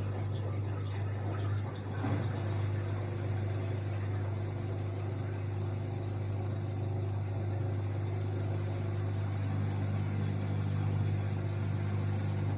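AEG Lavamat L62850L washing machine running with a steady low hum and a wash of water noise, cutting off suddenly at the end.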